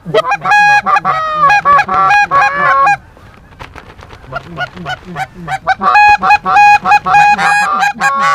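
Geese honking and clucking in fast, repeated notes. The calling drops away sharply about three seconds in, stays faint for a couple of seconds, then builds back to loud, rapid honking.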